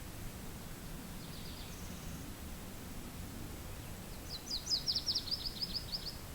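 A songbird singing: a few faint high notes early on, then about four seconds in a loud rapid run of about a dozen short high notes lasting nearly two seconds, over a steady low wind.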